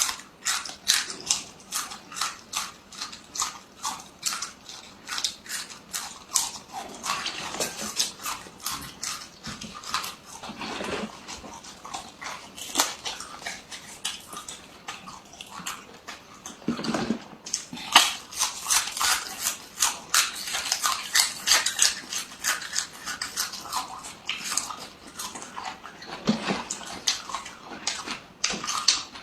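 Close-up chewing of crisp raw vegetables: sharp crunches and crackles in a steady run of about two a second, with a few softer, lower mouth sounds in between.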